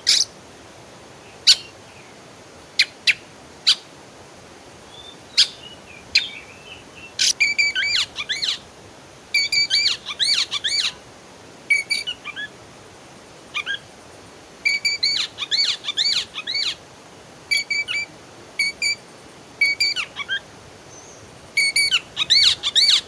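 Songbirds chirping and singing: a few sharp single notes at first, then repeated bursts of quick, bright chirps about every second or two. A steady faint hiss lies underneath.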